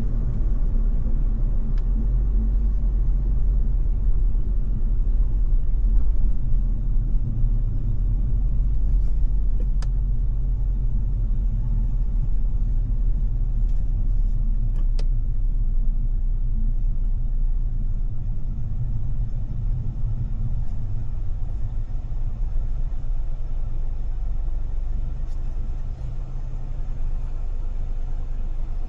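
Car driving in city traffic: a steady low rumble of engine and road noise, with a few faint sharp ticks.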